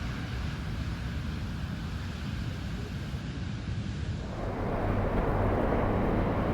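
Wind buffeting the microphone on a beach, with the wash of surf behind it; the surf noise grows louder about four seconds in.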